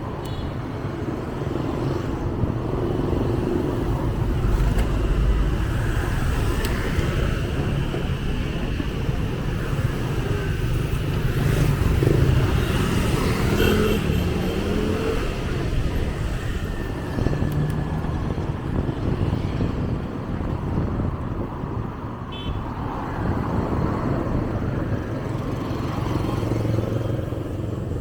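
Street traffic with motorbike engines running and passing close by, a steady mix of engine and road noise with small swells as vehicles go past.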